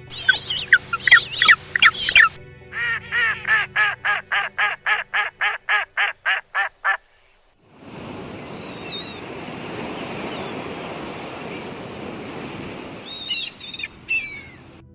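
A rapid run of about sixteen short, evenly spaced pitched animal calls, about four a second, then a steady outdoor hiss with a few thin bird chirps.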